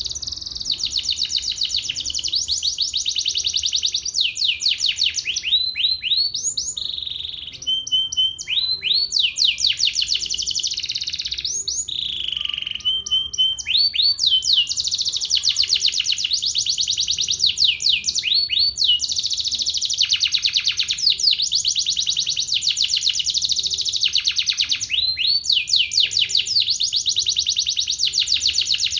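Domestic canary in full song: long runs of fast rolling trills and rising sweeping notes, with brief breaks about seven and twelve seconds in.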